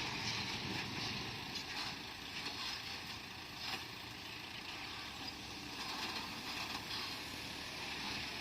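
Komatsu bulldozer's diesel engine running steadily, with a few faint clicks.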